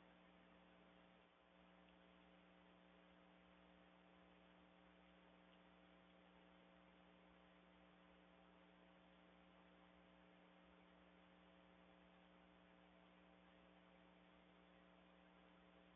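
Near silence: only a faint, steady electrical hum with no other events.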